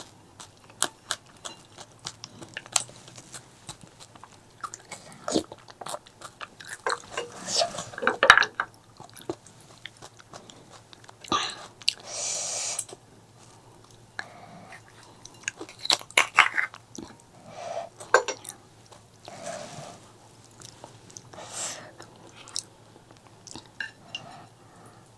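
Close-miked eating sounds: chewing and biting with many sharp, wet clicks and smacks at irregular spacing, and a longer hiss about twelve seconds in.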